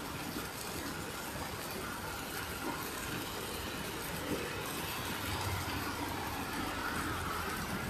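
Heavy rain falling on a flooded street, with a stream of runoff pouring down close by, making a steady rushing noise. A low rumble joins in about five seconds in.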